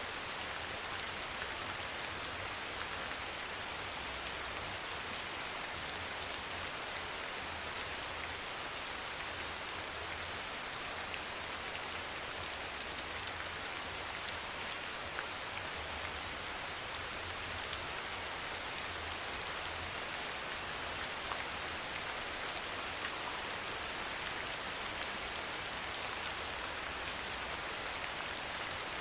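Steady, gentle rain: an even hiss of many small drops with scattered louder drop ticks, and a faint low drone underneath.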